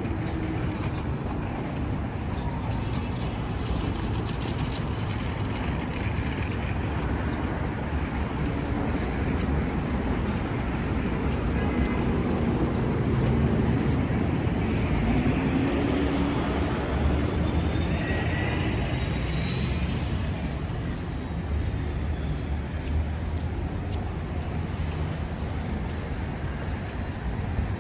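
City street traffic: cars and other motor vehicles passing in a steady rumble, with gusty wind on the microphone.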